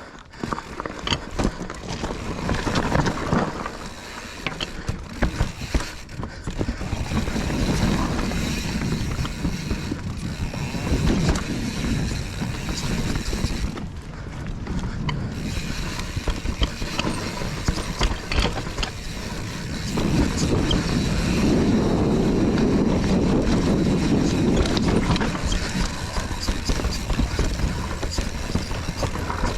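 Mountain bike descending a rough trail: a steady clatter of chain and frame rattle and tyres over dirt and roots, with the freehub ratchet clicking as the rider coasts.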